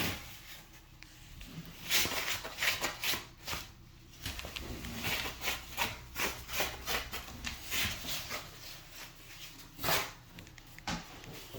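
Wiping excess grease off a door hinge: a run of short, irregular rubbing scrapes and light knocks against the hinge and door.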